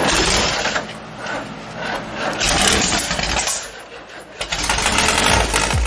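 Freshly built 1776cc VW Beetle air-cooled flat-four engine being started, its sound surging and dropping back every second or two.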